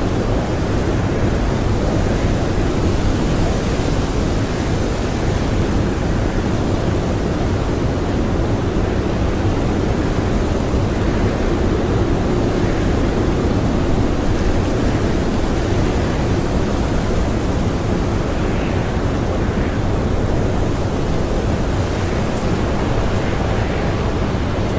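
Blizzard wind blowing hard and steadily, with gusts swelling a few times.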